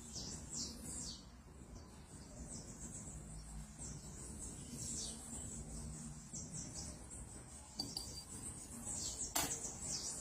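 Small bird giving short, high-pitched, downward-sliding cheeps every second or so over a steady high hiss, with one sharp click near the end.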